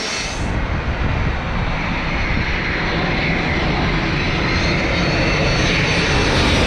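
Delta Boeing 767-400 jet airliner on short final, its engines making a loud, steady rumble with a rushing hiss that grows louder as it comes in to land.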